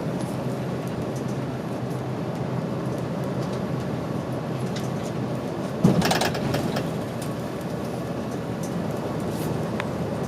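Route bus running, heard from inside the cabin: a steady engine hum and road noise. About six seconds in comes one sharp clunk followed by a second of rattling, as if the bus jolted over a bump.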